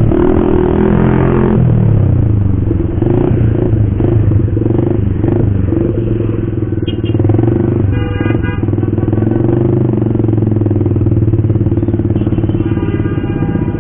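Motorcycle fitted with an aftermarket racing exhaust running loud; its engine note drops in pitch in the first couple of seconds and then holds steady. A brief higher tone cuts in about eight seconds in.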